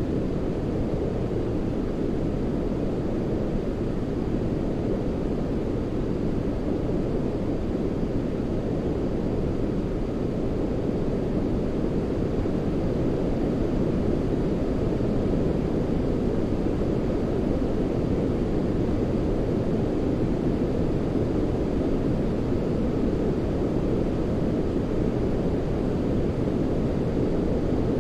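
Generated white noise: a steady, deep rushing hiss that does not change.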